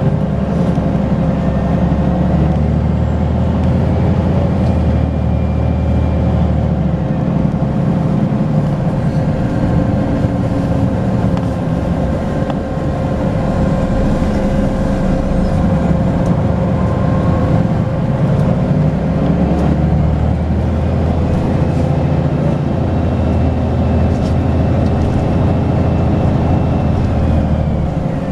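Volvo B10BLE bus's six-cylinder diesel engine running under way with a ZF automatic gearbox, its note changing as the bus pulls and eases off. A faint turbo whistle rises and falls over it in the first few seconds and again for most of the last eight seconds.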